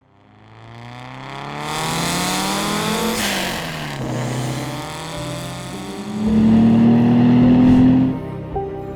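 Turbocharged performance car engine accelerating hard. Its note climbs for about three seconds, drops sharply with a brief burst of noise at a gear change, then climbs again, louder, and cuts off near the end.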